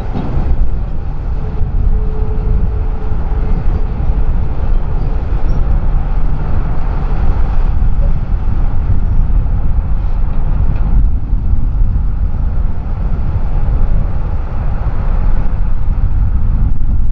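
Freight train rolling past, a loud steady low rumble.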